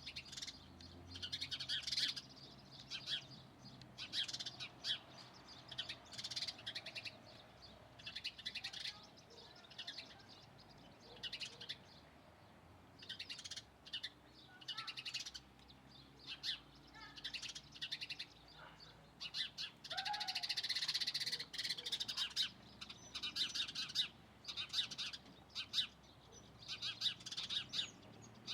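Birds chirping, with many short high calls repeating every second or so and a denser run of calls a little past the middle.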